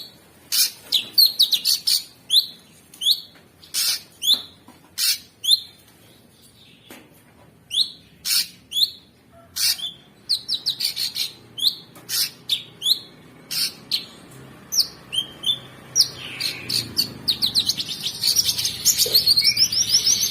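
Cucak sungkok singing: a series of short, sharp chirps and falling whistled notes, then a fast, rough run of rapid notes near the end.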